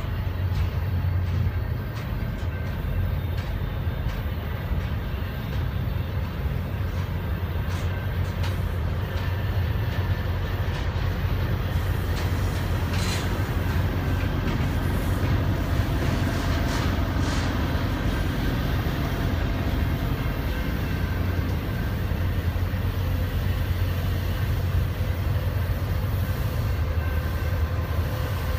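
Intermodal freight cars rolling past: a steady low rumble of wheels on rail with light clicking. A few brief high-pitched wheel squeals come about halfway through.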